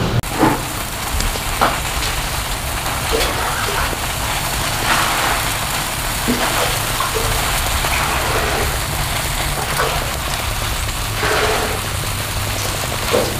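Whole red chilies frying in hot oil in a wok: a steady sizzling hiss with a few faint small pops.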